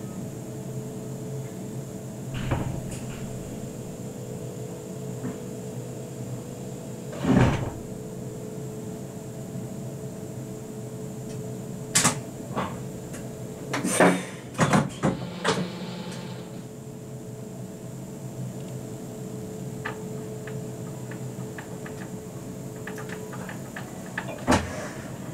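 Steady hum of an RBDe 560 'Domino' commuter train standing at a platform, heard from its driver's cab, broken by knocks and clunks: one about two and a half seconds in, a louder one about seven seconds in, a quick cluster about halfway through, and one more near the end.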